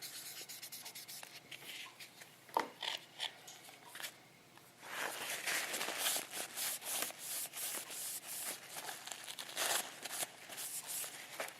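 Very fine wet sandpaper rubbing back and forth over the painted plastic body of a scale model car. It is scattered and fainter at first, then becomes a quick, steady run of short scratchy strokes from about five seconds in. The paint is being wet sanded smooth toward a shine.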